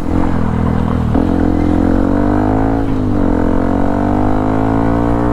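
Yamaha WR155R's single-cylinder four-stroke engine running under way, its pitch climbing steadily as the bike picks up speed, with a brief dip about three seconds in.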